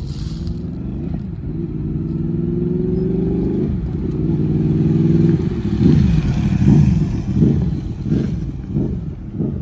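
Motorcycle engine pulling up through the gears, its pitch climbing, dropping at a shift about three and a half seconds in and climbing again. From about halfway it is revved up and down sharply about six times.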